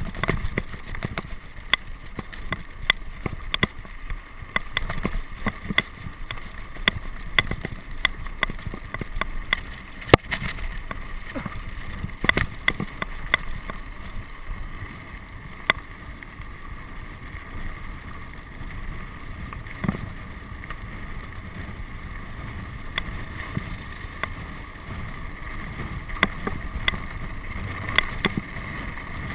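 Wind rumbling on the microphone, with frequent sharp clicks and rattles throughout.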